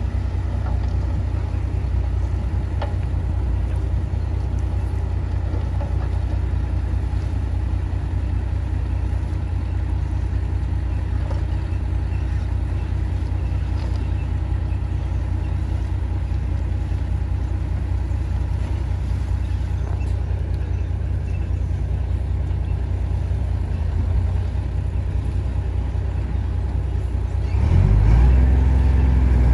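Heavy diesel earthmoving machinery running steadily with a deep engine drone, rising in level and pitch near the end as the engine comes under load or revs.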